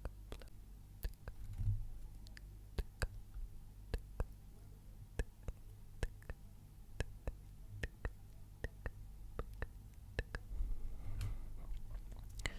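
Close-miked ASMR clicking: short, sharp clicks at uneven spacing, about two or three a second, over a faint low hum.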